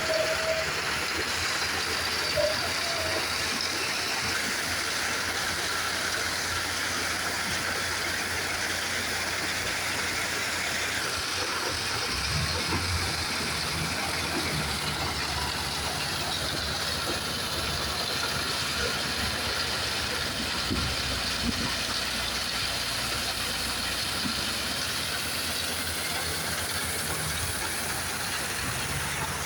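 Heavy diesel machinery running steadily, a low engine hum under a constant rushing hiss.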